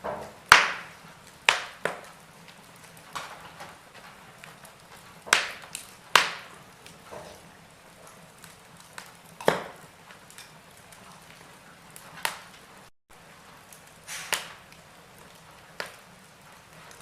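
Wood fire in a fireplace crackling, with sharp, irregular pops of burning logs; the loudest come about half a second in and around six seconds in. The sound cuts out for an instant about thirteen seconds in.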